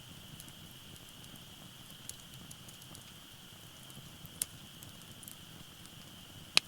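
Wood fire burning in a Uniflame Maki Grill fire pit, crackling softly with a few sharp pops of the burning firewood. The loudest pop comes near the end.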